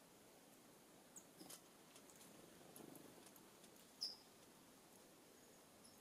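Near silence with a few faint, short, high chip notes from small birds, the clearest about four seconds in.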